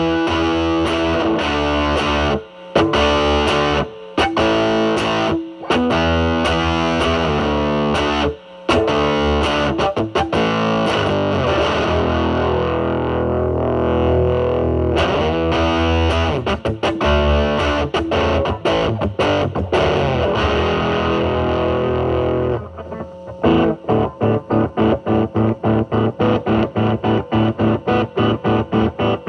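Electric guitar (Telecaster) played through a Mosrite Fuzzrite clone fuzz pedal into a Marshall Valvestate amp's drive channel: distorted chords and single-note riffs with short breaks. The fuzz is at its minimum setting in the second half, and near the end comes fast, even, repeated picking, about three or four strokes a second.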